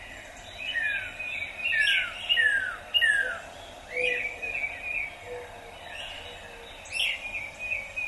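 Songbirds chirping and singing, with a run of four quick falling whistled notes about two a second between one and three seconds in.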